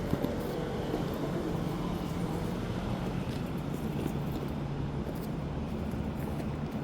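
Steady street traffic noise with the low, even hum of a motor vehicle's engine.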